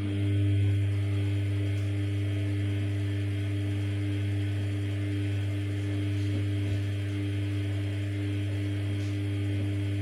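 Samsung P1271 washing machine giving off a steady, loud low electrical hum with no change in pitch.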